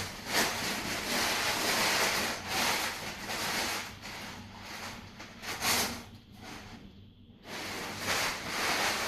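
Wood fire burning in a small brick fireplace with a strong draft: an uneven rushing hiss that rises and falls, dropping away briefly about six to seven seconds in.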